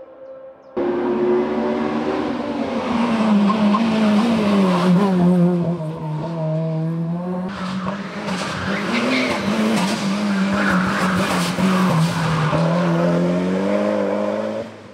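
Racing car engine at high revs on a hill-climb course, its pitch dipping and rising again several times as the driver works through the gears. It cuts in abruptly about a second in.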